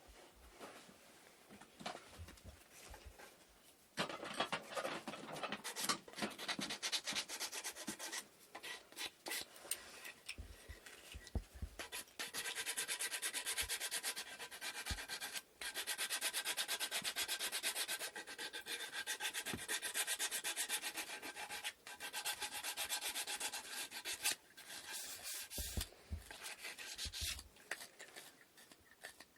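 Sandpaper rubbing back and forth on wooden inkle loom parts. The scratchy strokes start about four seconds in, uneven at first, then fast and steady for a long stretch with two brief breaks, and stop shortly before the end.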